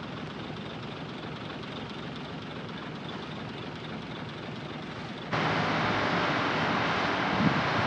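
Heavy diesel earthmoving machinery running steadily. About five seconds in the sound jumps abruptly louder and harsher, with a couple of small knocks near the end.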